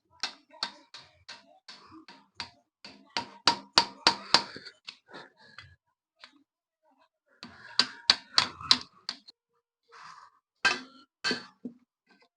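Hand tools and metal parts clicking and knocking in irregular clusters, as a motorbike is worked on.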